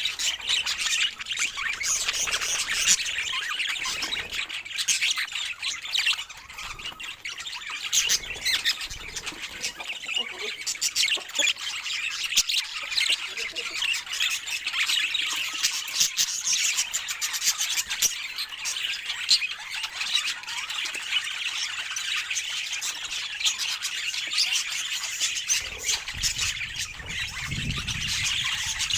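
Budgerigars chattering: a steady stream of fast chirps, squawks and warbles with no break.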